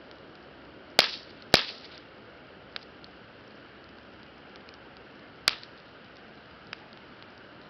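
Wood campfire crackling: three loud, sharp pops (about a second in, again half a second later, and about five and a half seconds in) and a few fainter ticks over a steady low hiss of burning.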